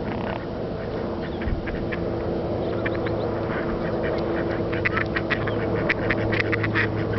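Waterbirds calling: a scatter of short, quick calls that come thicker about five seconds in, over a steady low hum.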